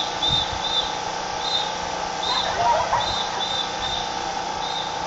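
Short, high bird-like chirps, often in pairs, repeating every half second to a second over a low murmur of voices.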